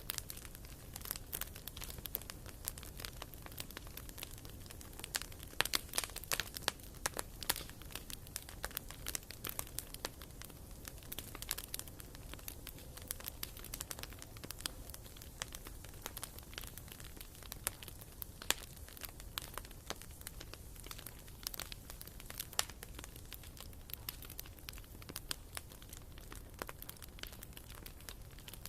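Wood fire burning in a fireplace: irregular sharp crackles and pops from the burning firewood, over a low steady rumble.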